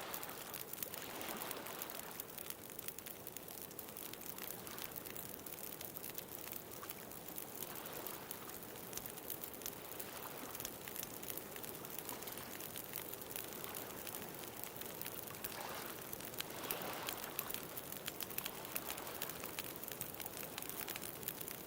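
Bonfire crackling with many small, quick pops, over ocean waves washing in and drawing back in slow swells every few seconds.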